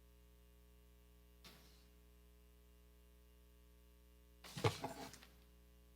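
Steady low electrical hum from the hearing room's sound system, with a faint brief rustle about a second and a half in and a short, louder sound of under a second about four and a half seconds in.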